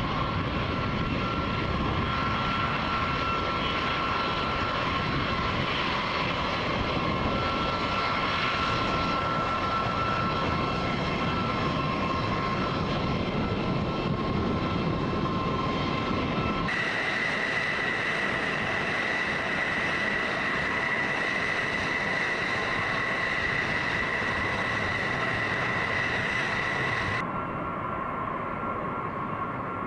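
Aircraft engines running steadily, with a high whine over the engine noise. The sound changes abruptly twice, about 17 s and 27 s in, the middle stretch thinner with a higher whine.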